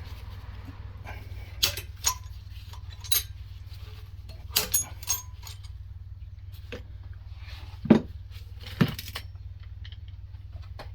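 Metal hand tools and small engine parts clicking and clinking against each other in scattered sharp knocks, the loudest about eight seconds in, over a steady low hum.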